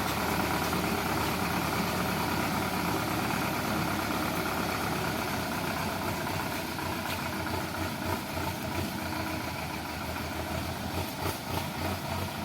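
Sonalika DI 750 tractor's diesel engine idling steadily, its low throb turning more evenly pulsed in the last few seconds.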